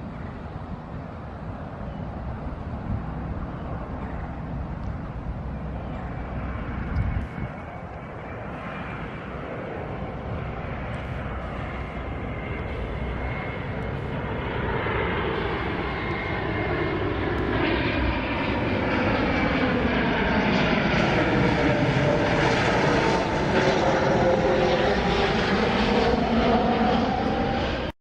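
Jet airliner passing low overhead. Its engine noise builds steadily and is loudest in the last several seconds, with a sweeping, shifting tone as it passes.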